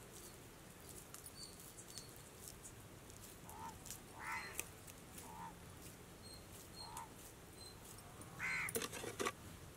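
Birds calling in the background: about five short calls spaced a second or more apart, the loudest near the end, over faint scattered clicks.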